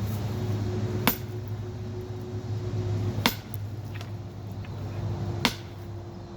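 Sledgehammer striking a rock three times, about two seconds apart, each a short sharp hit, with a steady low hum underneath.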